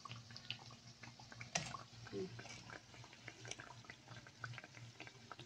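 Breaded chicken patties deep-frying in a pan of oil: faint, scattered crackles and pops, with one sharper click about a second and a half in, over a low steady hum.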